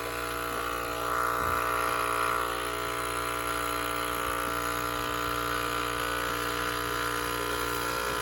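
Cow milking machine running steadily, its pump giving an even mechanical hum while it draws milk.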